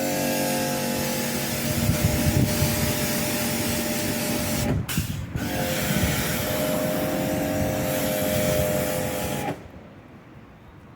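Electric pressure washer running and spraying, a steady motor hum under the hiss of the water jet. It breaks off briefly about five seconds in, then runs again and stops near the end.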